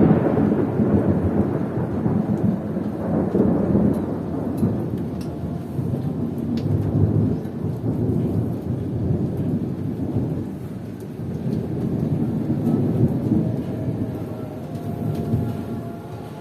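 Long roll of thunder rumbling over steady heavy rain, swelling several times and slowly fading away.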